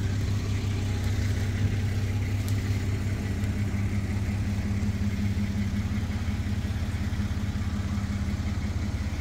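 Toyota Land Cruiser FJ80's inline-six engine idling steadily.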